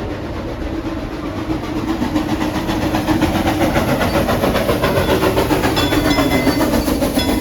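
Steam train running, a steady rumble and rattle that grows louder over the first few seconds and then holds. A few high, thin squeals come in near the end.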